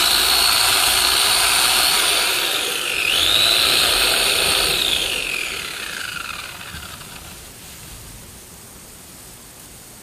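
Electric chainsaw running at full speed, its whine dipping in pitch about three seconds in as it cuts and recovering. About five seconds in it winds down with a falling whine and fades out.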